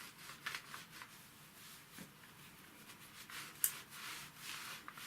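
Small handling noises from the disassembled starter motor's parts: rustling and light clicks, with one sharp click about three and a half seconds in.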